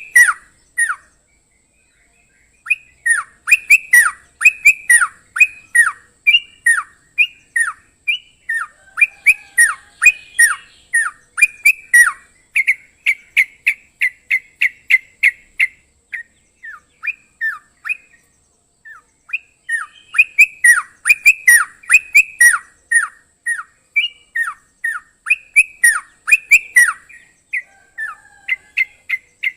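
Yellow-vented bulbul (trucukan) singing: loud bursts of short, bubbly notes, each sliding sharply downward, delivered in quick runs separated by brief pauses.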